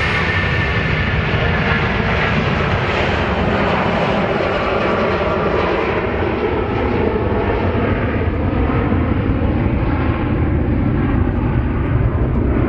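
Jet airliner's engines heard close by as it passes, a loud steady noise with a high whine that fades over the first couple of seconds while the rumble carries on.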